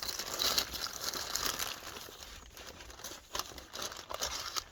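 Paper wrapping crinkling and rustling as it is handled and pulled off a new Dutch oven, busiest in the first second and a half and then thinning out.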